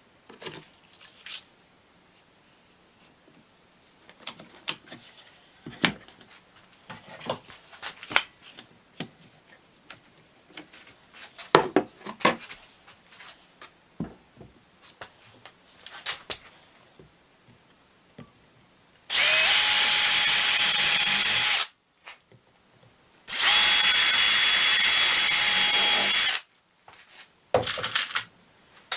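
Power drill driving screws into wood in two runs, about two and three seconds long, with wooden pieces knocking and clattering as they are handled before and after.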